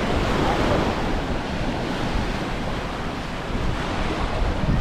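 Surf washing onto a beach, mixed with wind buffeting the microphone.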